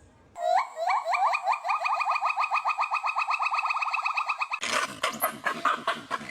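An animal calling in a fast, even run of short rising chirps, about eight a second. About four and a half seconds in, it turns to a harsher, noisier rapid chatter.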